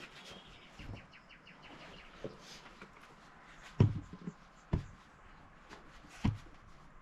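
Three sharp knocks, the first two about a second apart and the third a second and a half later, over faint bird chirps.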